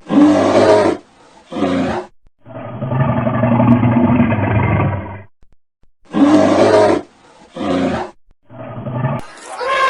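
Deep animal calls: a few short calls, one long steady call of about three seconds, then more short calls, from several clips joined one after another.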